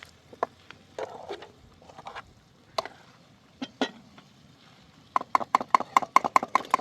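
Scattered sharp clicks and knocks, then, about five seconds in, a fast even run of sharp taps, roughly eight a second, each with a short ringing tone.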